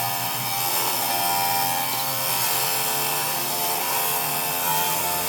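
A power tool running steadily: a constant hiss with steady whining tones over it.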